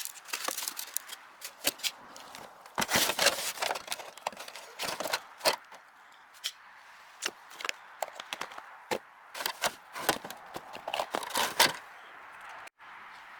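Irregular clicks, taps and knocks of hard objects being handled, with a brief gap near the end.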